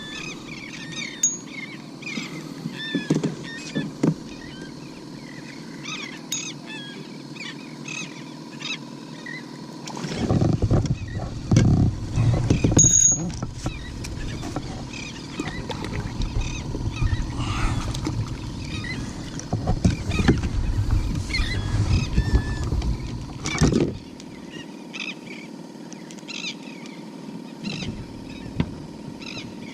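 Birds calling with many short chirps over an open-water ambience while the kayak moves. For about fourteen seconds in the middle, a loud low rumbling noise comes in and cuts off, with a few sharper knocks among it.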